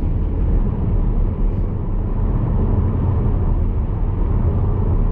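Steady road and engine rumble inside the cabin of a petrol Skoda Superb driving along at a constant speed.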